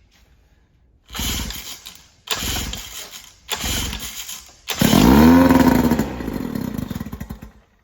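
7.5 hp Mercury two-stroke outboard being pull-started cold after decades of storage. Three pulls turn it over, then it catches and runs for about three seconds, revving up and settling back, before it cuts out suddenly.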